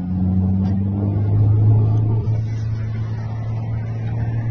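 Car engine running at speed with a steady low drone.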